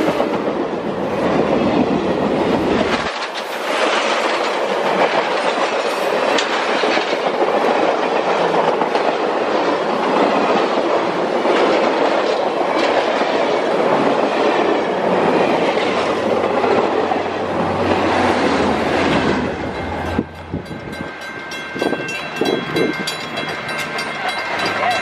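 Passenger cars of a train passing close by at speed, their wheels rumbling and clattering over the rails. About twenty seconds in, the passing noise drops away sharply, leaving a quieter rumble with a steady high ringing tone.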